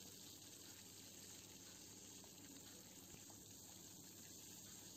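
Faint, steady sizzle of sweet corn kernels and chopped green chillies frying in oil in a steel kadai, stirred with a wooden spatula, with a couple of faint clicks.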